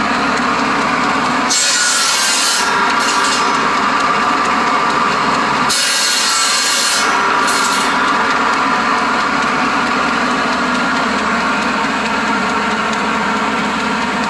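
Buzz saw powered by a Willys truck cutting old fence boards into firewood: the blade runs steadily, and twice, about a second and a half in and again about six seconds in, it bites into a board with a loud, high rasp lasting about two seconds.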